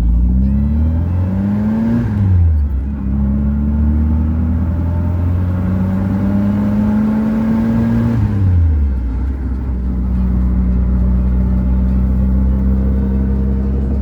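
Triumph Spitfire MK IV's four-cylinder engine accelerating through the gears: the pitch rises, drops at a gear change about two seconds in, climbs again, drops at another change after about eight seconds, then holds steady.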